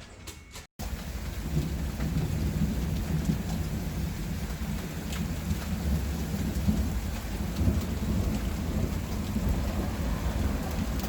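Heavy thunderstorm: hard rain falling with a continuous low rumble of thunder underneath. It starts abruptly just under a second in, after a brief gap.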